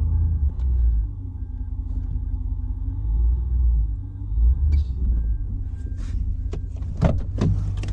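Truck engine running at low speed while reversing, with a faint short beep repeating about twice a second. A couple of knocks about seven seconds in.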